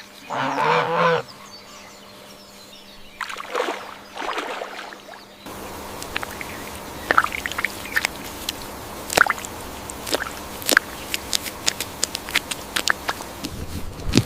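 Waterfowl calling: a loud honking call in the first second and fainter calls a few seconds later. After an abrupt change in the background, many short, sharp irregular clicks and light splashes run over a steady hiss.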